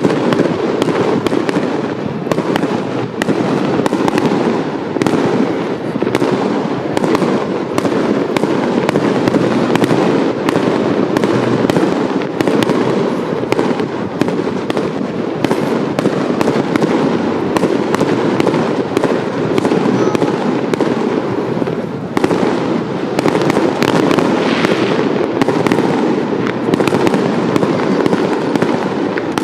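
Fireworks display: a dense, unbroken barrage of shell bursts and crackling, many bangs a second, starting abruptly.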